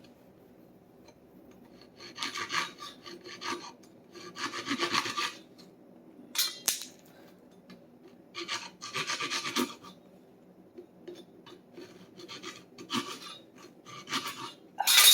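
Hand saw cutting through a dry hickory handle in short, irregular runs of strokes with pauses between them, the loudest stroke near the end.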